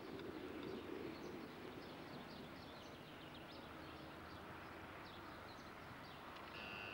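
Small birds chirping repeatedly in quick high notes over faint open-air background noise, with a brief steady tone near the end.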